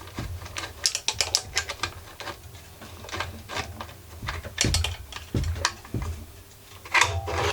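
Ratchet wrench clicking in short irregular runs, with metal tool knocks, as a screw holding a two-stroke generator's exhaust muffler is backed out.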